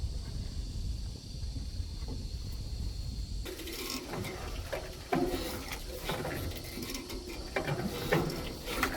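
Fishing reel being worked, a clicking, ratcheting rattle that starts about a third of the way in over a low rumble.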